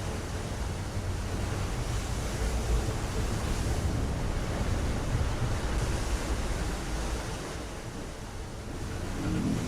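Steady rushing of sea water over a deep low rumble, as in a ship-sinking sound effect, dipping a little near the end.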